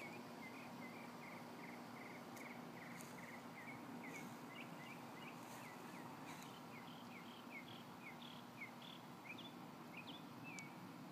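Faint outdoor ambience: a bird giving a long run of short, repeated chirps over a low steady hum.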